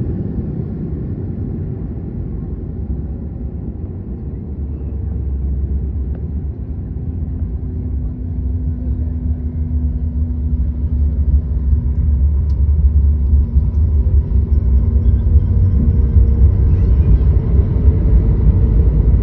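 Low rumble inside the cabin of a Boeing 737 MAX-8 airliner rolling along the ground just after landing, with faint steady engine tones. The rumble grows louder in the second half.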